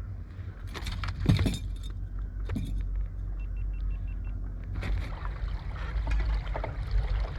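Knocks and metallic rattles of fishing gear being handled aboard a small inflatable boat, over a steady low rumble, with a short run of faint high beeps in the middle.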